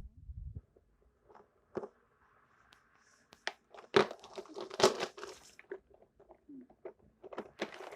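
Toy trains being handled: scattered plastic clicks and knocks, with some rustling. The two loudest knocks come about four and five seconds in.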